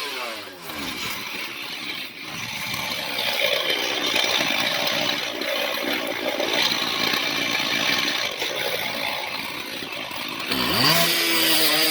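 Two-stroke gas-powered saw cutting the metal tubing frame of a mobile home. The engine note drops at the start, a steady noisy cutting sound follows, and near the end the engine revs back up to a high steady pitch.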